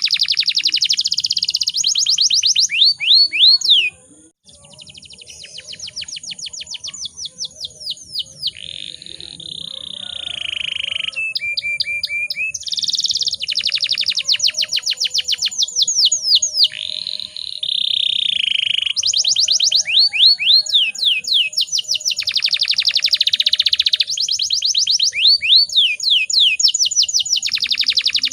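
Domestic canary singing a long song of rapid trills made of fast downward-sweeping notes, mixed with buzzy rolls and a held whistled note. The song breaks off sharply about four seconds in, then resumes quieter and builds back to full loudness.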